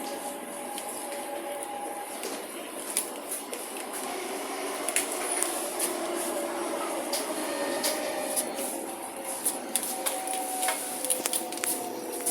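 Inside a moving MRT train: the whine of the electric traction motors, a few steady tones that slowly fall in pitch in the last few seconds, over running noise with scattered clicks and rattles.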